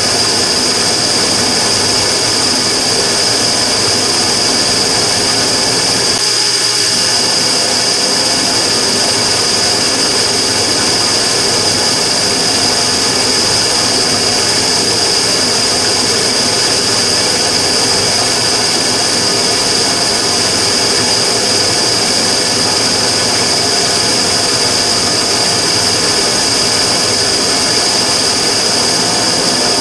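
Immersion tube burner running with a steady rushing roar and a strong, constant high-pitched whine over it, thinning briefly about six seconds in. This is the abnormal noise (異音) the burner is making.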